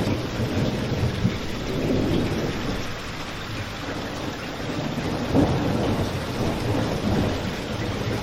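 Steady rain falling outside, heavy in the low end, with a fireplace crackling; two louder pops stand out, about a second in and just past the middle.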